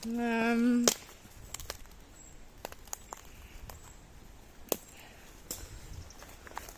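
A short held voiced note with a slight wobble for about the first second, then scattered twig snaps and crunching footsteps on woodland ground.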